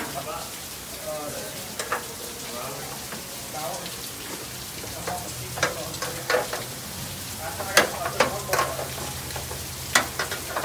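Shop work sounds during an engine pull: scattered sharp metal clanks and clicks over a crackly background, with a low steady hum joining in for the last few seconds.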